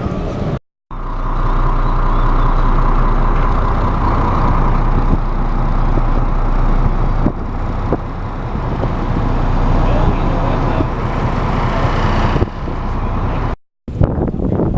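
Brisbane CityCat ferry's engines running steadily: a loud low rumble with a hum above it. The sound drops out briefly just after the start and again near the end.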